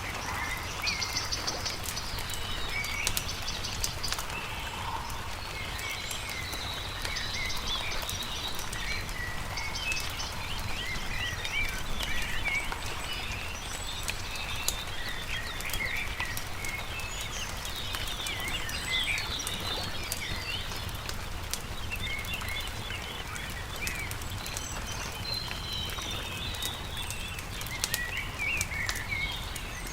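Many small birds chirping and singing at once in quick, overlapping phrases, mixed with a wood campfire crackling in scattered sharp pops, over a steady low background noise.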